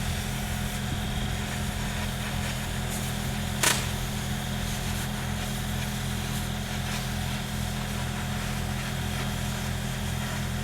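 An engine idling steadily with a low, even hum, and one sharp clank about three and a half seconds in.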